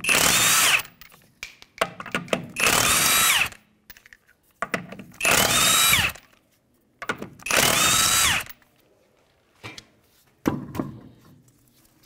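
A 1/2-inch impact gun with a 21 mm socket spinning lug nuts off a car's rear wheel, four runs about two and a half seconds apart, each a second or so long with a whine that changes pitch. A few light clinks follow near the end.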